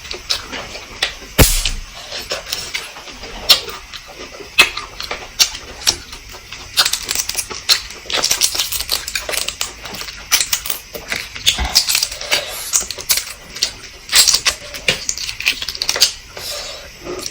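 Close-up eating sounds of someone eating fertilized duck eggs (balut): an irregular run of chewing clicks and mouth smacks, with one heavier knock about a second and a half in.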